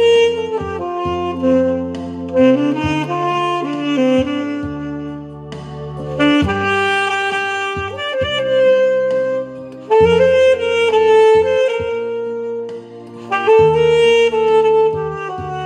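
Saxophone playing a melody over a backing track with sustained bass notes.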